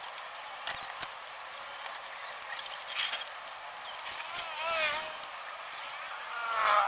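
An animal calling twice with a quavering, wavering pitch, once about two thirds of the way in and again near the end. Faint clicks come early on.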